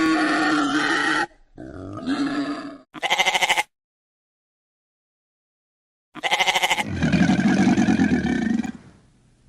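A string of short animal calls in hard-cut segments: a pitched call, another call, then a rapid pulsed call, followed by a dead-silent gap of about two and a half seconds. The calls resume with another pulsed call that runs into a lower, louder call.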